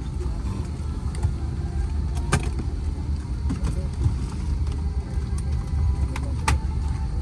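Airliner cabin at the gate: a steady low hum of the cabin air and engines or APU, broken by two sharp clicks, one about two seconds in and another about six and a half seconds in.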